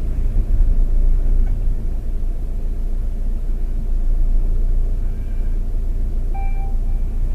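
Steady low rumble of a car, heard from inside it. About six seconds in, a mobile phone ringtone begins as a few short melodic notes.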